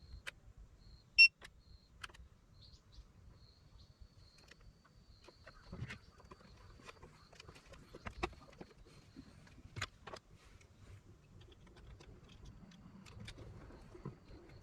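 A single short electronic beep about a second in, the loudest sound, from an ALLPOWERS S500 portable power station as its charging adapter is connected. Light clicks and handling knocks follow, and a faint high whine comes and goes in the first half.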